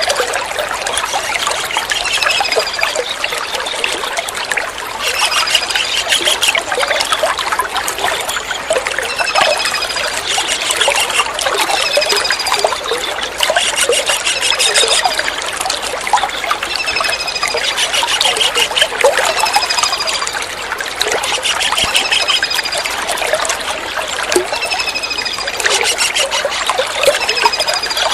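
Kingfisher calls: short high falling whistles and brief trills, repeated every couple of seconds, over a continuous trickle of running water.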